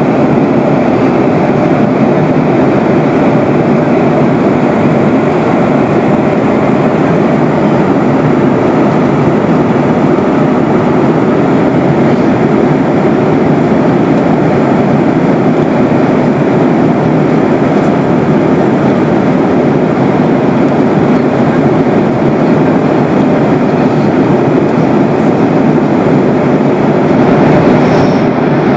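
Steady, loud rushing drone inside the cabin of a Boeing 737-800, the sound of its CFM56-7B engines and airflow heard from a window seat.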